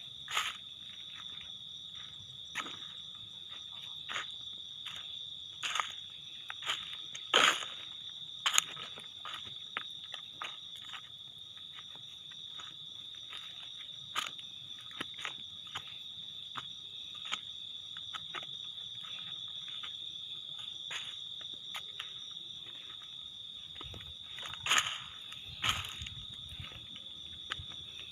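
Crickets trilling in one unbroken high steady tone, with scattered sharp crunches and clicks over it, loudest about seven seconds in and again near the end.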